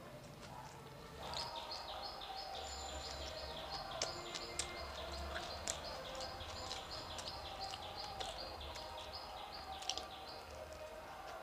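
A bird chirps over and over, about three short high notes a second, starting about a second in and stopping near the end. A few sharp clicks from chewing toast fall over it.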